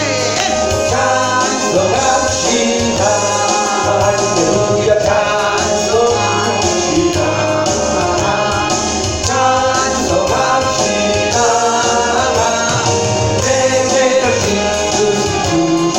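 A worship song in a church praise service: a group of voices singing over instrumental accompaniment.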